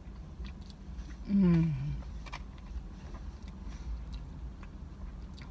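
A person eating a spoonful of peppermint Blizzard soft-serve, with small mouth and spoon clicks, and a loud "mmm" with falling pitch about a second and a half in.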